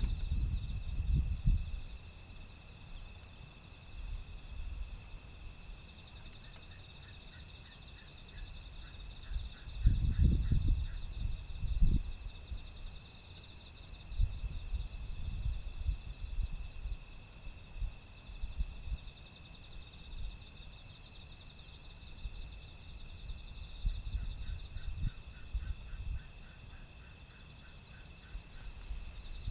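Crickets and other insects chirring steadily in a high, pulsing drone, with a second insect trilling in short spells. Low gusts of wind rumble against the microphone near the start, about ten seconds in, and again near the end.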